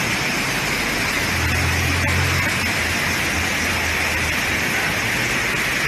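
Steady hiss of heavy rain. A low engine hum joins about a second in and fades out shortly before the end.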